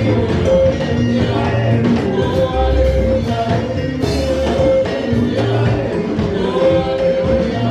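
Live praise-and-worship band music: held chords over a bass line and steady drum beats, with singing.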